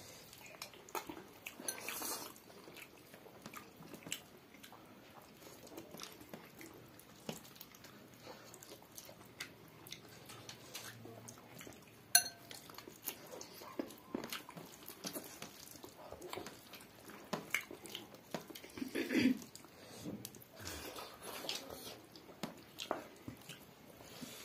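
Close-miked eating sounds of two people eating rice and chicken by hand: chewing, lip smacks and small clicks of fingers and food against plates. A sharp click about halfway through, and a brief vocal sound later on.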